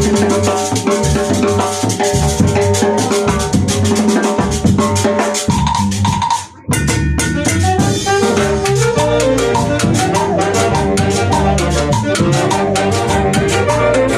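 A Peruvian band (orquesta) playing loud, fast music driven by a drum kit and percussion, with pitched instruments over it. The sound drops out briefly about six seconds in, then the music resumes.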